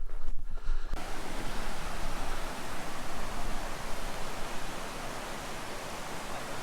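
A steady hiss of rushing water starts suddenly about a second in, after a low wind rumble, and eases slightly near the end.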